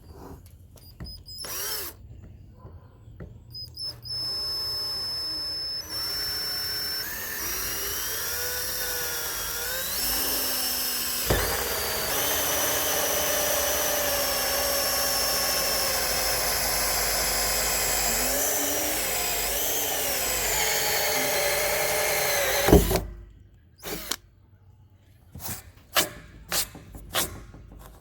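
Power drill with a 1 1/4-inch bit boring a hole through the wall of a 55-gallon rain barrel: a few short trigger blips, then the drill runs loud and steady for nearly twenty seconds, speeding up a few seconds in, and stops suddenly. A few sharp knocks follow near the end.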